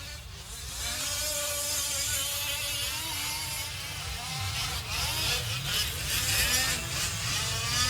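Several 1/5-scale RC trucks' small two-stroke gasoline engines buzzing as they race, their pitches rising and falling and overlapping as each one revs up and backs off.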